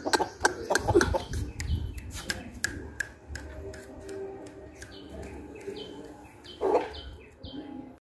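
Birds chirping in short, high, repeated notes, with a run of rapid sharp clicks, about five a second, over the first few seconds and one louder short call about two-thirds of the way through.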